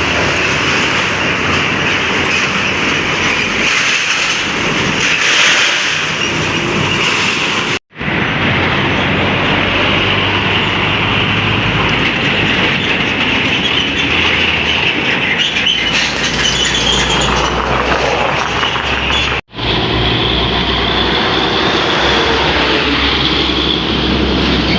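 Heavy trucks passing on a highway: a steady rumble of engines and tyres with a low hum underneath. The sound cuts out abruptly twice, about eight seconds in and again about twenty seconds in.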